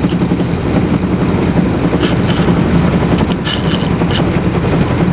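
Boat's mud motor, a 6.5 hp Predator single-cylinder four-stroke engine, running steadily and loudly at a constant speed while the boat travels.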